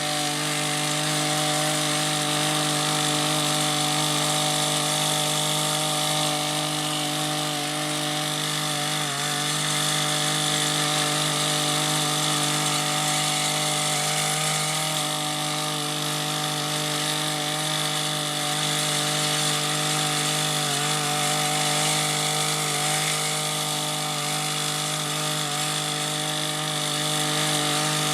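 Harbor Freight Predator gas cultivator running steadily while tilling soil, its engine dipping briefly in pitch a few times as the tines take load.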